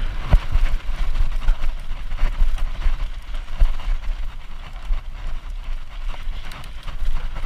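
A hardtail mountain bike rolling fast down a rocky, rutted dirt trail: a steady rumble of wind buffeting the microphone, with repeated knocks and rattles as the tyres and frame hit rocks and ruts. The sharpest knock comes just after the start.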